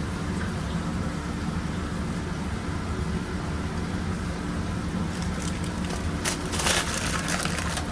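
Steady low hum of a food truck's running kitchen equipment, with a burst of crackling and clatter from about five seconds in, strongest for a second or so near the end.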